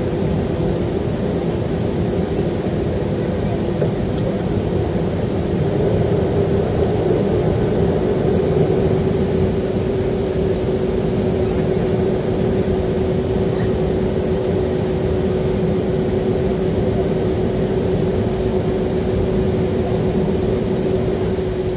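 Cabin noise aboard a Boeing 737-300 in flight: its CFM56-3 engines running steadily, with a constant hum over an even rush of air.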